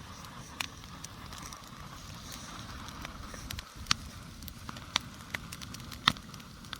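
Campfire burning with a steady low rush, crackling, and a few sharp pops of burning wood, the loudest about four, five and six seconds in.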